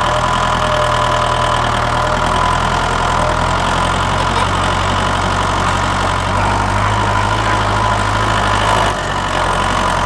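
Tractor engine idling steadily, with a low, even diesel-like hum.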